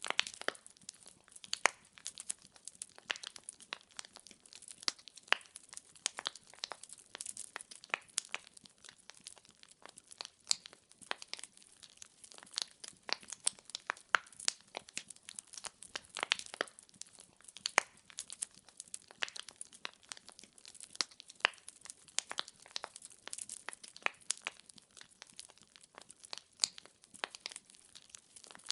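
Wood fire burning in a fireplace, the logs crackling with many sharp, irregular pops, several a second, over a faint hiss.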